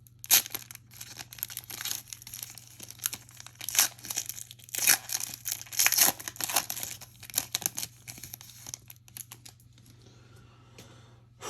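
Trading card pack wrapper being torn open and crinkled: a string of irregular rips and crinkles for most of the first nine seconds, then quieter rustling as the pack is handled.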